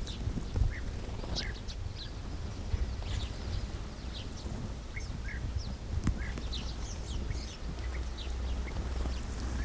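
Sparrows chirping: many short, quick chirps, irregular and overlapping, over a steady low rumble, with a few brief knocks.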